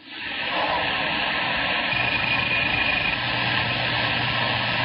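CB radio receiver hiss and static, a steady rushing noise that comes up sharply at the start. About two seconds in, a thin steady whistle is heard for about a second, and a low hum joins under the static.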